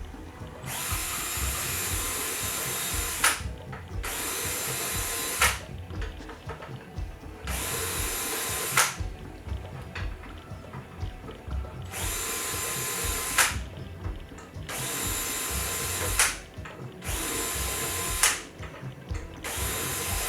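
Handheld power drill run in about seven short bursts of one to two and a half seconds each, with a sharp click as each burst stops: deburring work on aluminum aircraft wing parts.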